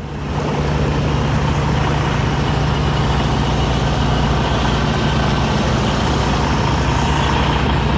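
Semi truck's diesel engine running steadily at low revs as the tractor is backed slowly under a trailer.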